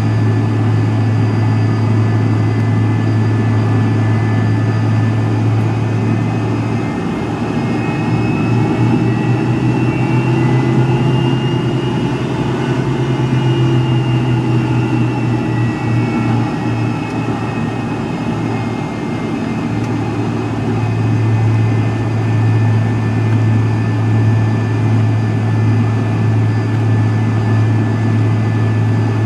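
Cabin noise of a McDonnell Douglas MD-83 heard from a window seat near its rear-mounted Pratt & Whitney JT8D engines: a steady, loud low engine drone with whining tones above it, whose pitch rises and then falls gently around the middle.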